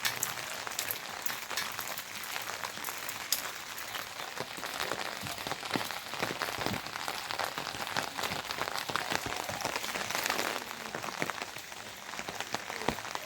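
Steady rain falling, with many separate drops striking a surface close by.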